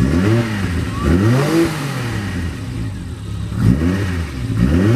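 Classic car engine being revved in four quick throttle blips, each rising in pitch and falling back to a rough idle between them.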